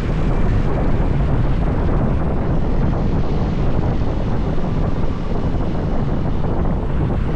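Steady wind rush on the microphone and road noise from a motorbike riding along a highway, a loud, even rumble.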